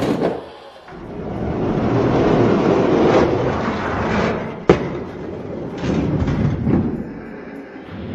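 Die-cast toy monster trucks rolling and rattling down a racing track, with a sharp knock a little under five seconds in.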